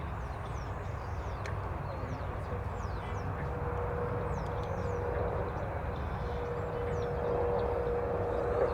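Jet airliner engines running, a steady rush with one held humming tone that builds and grows louder toward the end, while small birds chirp with quick, high, falling whistles.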